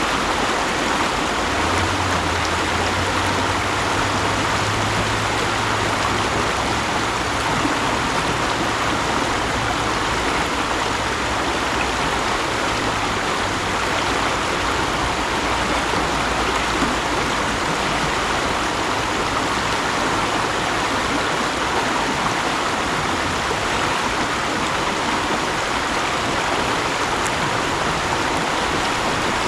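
Mountain stream rushing steadily over rocks, an even wash of water noise. A faint low drone runs underneath from about two seconds in until about two-thirds of the way through.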